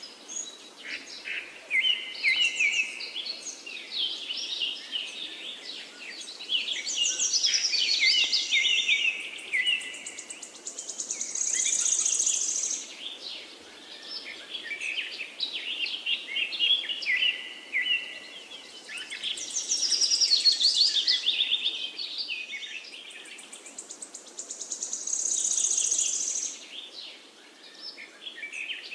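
Several songbirds singing over one another: quick chirps, whistled phrases and trills, with a high buzzy trill that comes back twice.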